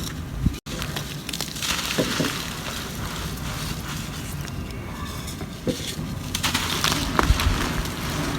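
Dry, crusty ocean mud crumbling and crackling as it is broken up, in two spells of dense crisp crackles with sharp snaps.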